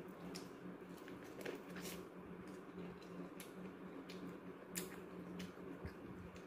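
Mouth sounds of biting and chewing boiled corn on the cob: a scatter of small, sharp, wet clicks, the loudest just before five seconds in, over a faint steady hum.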